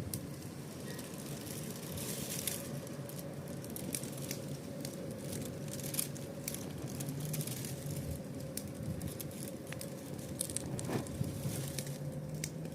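Wood fire crackling, with scattered sharp pops and snaps over a faint steady hum.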